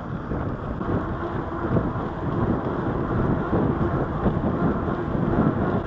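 Wind buffeting the microphone of a camera riding along on a moving bicycle: a low rushing noise that flutters in level.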